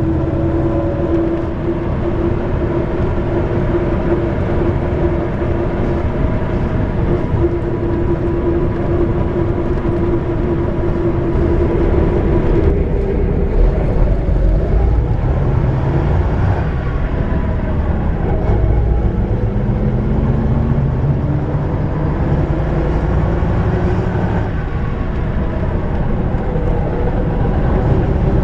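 Ikarus-250.95 coach's YaMZ diesel engine running under way, with road noise. A steady whine holds for roughly the first half, then the engine note shifts about halfway through and climbs again in the second half.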